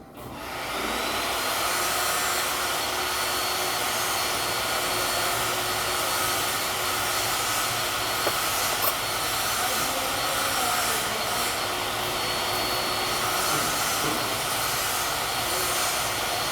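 A machine starts up, spinning up within about a second, then runs steadily with a high whine over a rushing noise.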